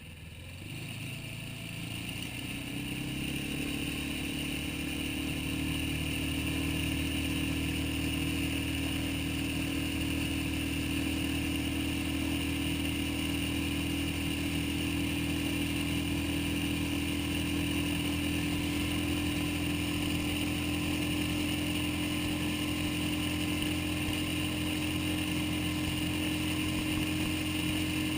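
Suzuki 6 hp outboard motor driving a small inflatable boat: it throttles up over the first few seconds, growing louder, then runs steadily at a constant pitch under load.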